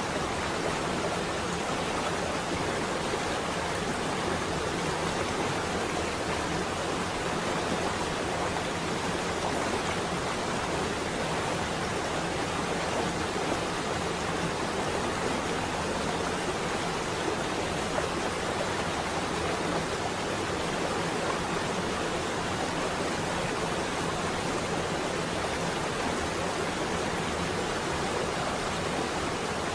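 Rain on a window glass, an even, unchanging hiss.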